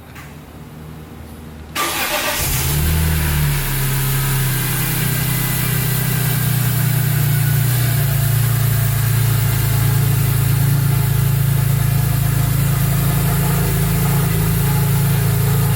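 A 2001 BMW M Coupe's straight-six starting from cold. It fires about two seconds in, flares up briefly, then settles into a steady fast cold idle.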